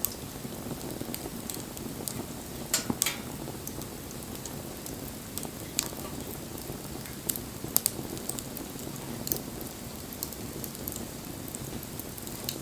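Wood bonfire burning: a steady low rush of flame with scattered sharp crackles and pops, with a few louder snaps about three seconds in and again around eight seconds.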